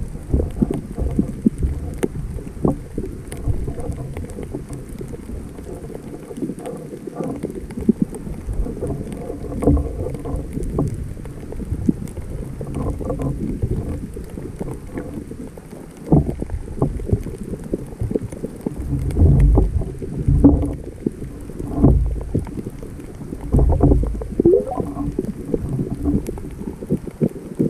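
Sea water heard underwater through a GoPro's waterproof housing: a muffled, low sloshing rush with many irregular clicks and knocks. Several louder surges of rumble come in the second half.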